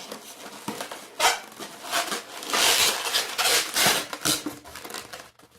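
Long latex modelling balloons being handled and twisted: rubbing and squeaking latex with a sharp click about a second in, loudest in the middle.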